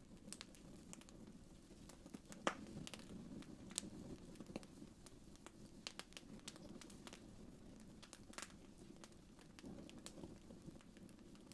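Wood fire crackling softly: irregular small pops and snaps over a low, steady hush of flames, with the sharpest pop about two and a half seconds in.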